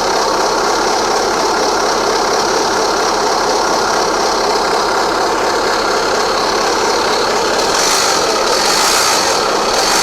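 Suzuki Let's 4 scooter's 49cc four-stroke single-cylinder engine running steadily with a rattling, knocking abnormal noise, growing a little louder and harsher about eight seconds in.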